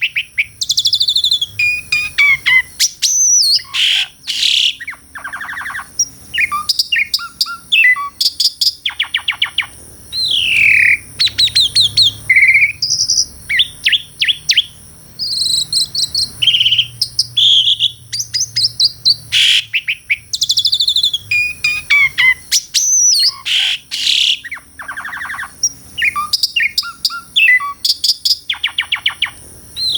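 Asian pied starling singing a continuous, varied song: fast rattling trills, whistles that slide down in pitch, and sharp clicking notes, broken by short pauses.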